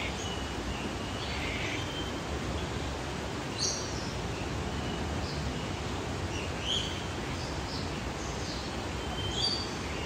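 Birds giving short, high chirps and whistles, a few seconds apart, over a steady background hiss.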